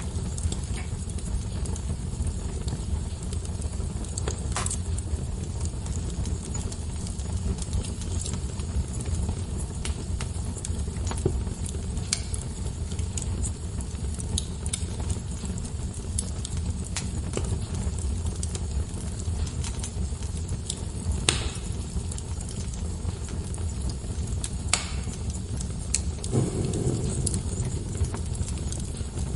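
Wood fire burning in a fireplace: a steady low rumble with scattered crackles and pops, the loudest pop about two-thirds of the way through.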